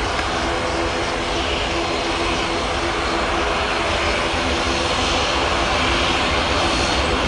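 Airliner engines running loud and steady at close range, a deep rumble with a few steady humming tones.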